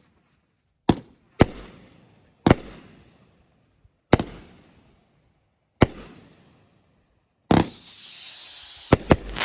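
Consumer fireworks going off: five sharp single bangs about a second or so apart, each fading away in a trailing echo. About seven and a half seconds in, a louder bang gives way to continuous crackling with a wavering high whistle, and two more bangs follow near the end.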